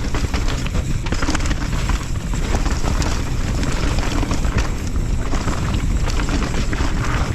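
Mountain bike riding fast down a dirt trail: tyres rolling over dirt and rock with frequent knocks and rattles from the bike. Steady wind buffets the camera microphone.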